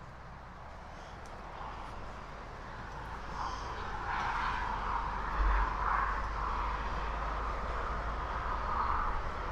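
Motorway traffic noise, a steady rushing hum that swells over the first few seconds and then holds, with a brief low thump about halfway through.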